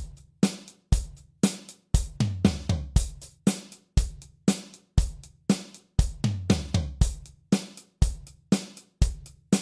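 Acoustic drum kit played in a steady, simple groove: bass drum, snare and hi-hat strokes about two main hits a second with lighter hi-hat strokes between, in the style of a basic country-rock beat with a fill-in.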